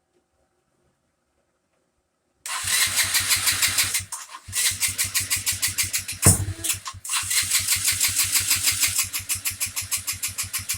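Electric starter cranking a homemade motorcycle's engine in three bursts with a rapid, even rhythm, starting after a couple of seconds of silence, with one sharp loud pop about six seconds in. The engine does not catch; the owner blames a wrong fuel-air mixture from an electric choke that stays mostly closed.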